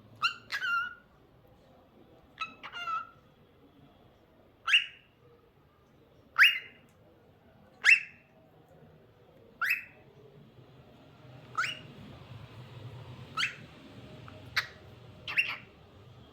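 Cockatiel giving short, sharp calls that sweep down in pitch, one every second or two, some in quick pairs.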